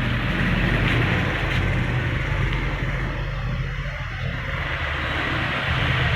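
Steady low rumble of a motor vehicle's engine running, with an even hiss over it.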